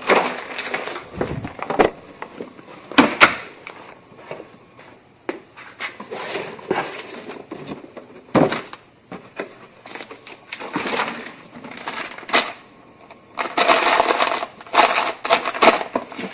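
Handling noises: an irregular series of clicks, crackles and crunches as things are handled and crushed, with a dense run of crackling near the end.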